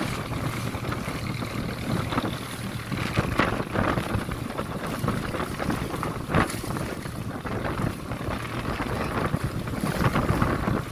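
Passenger motorboat under way in rough water: a steady engine drone with wind buffeting the microphone, and a few sharp slaps of waves hitting the hull, the loudest about six seconds in.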